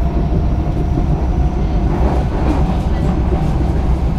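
Singapore MRT electric train running between stations, heard from inside the carriage: a steady low rumble of wheels on rail with a faint motor whine.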